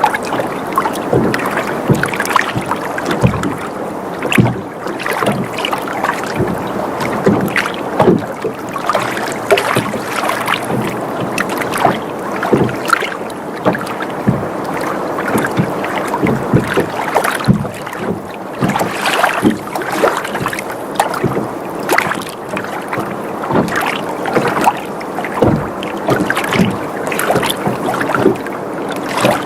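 Water sloshing and lapping against a boat's hull, with frequent small irregular slaps and knocks as the boat rocks.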